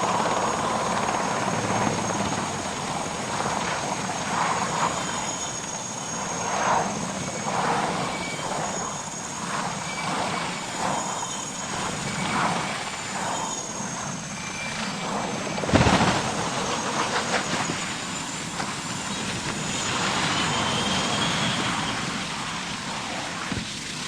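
Helicopter running with a steady rotor and turbine noise and a thin high whine, broken by one sudden loud bang about two-thirds of the way through.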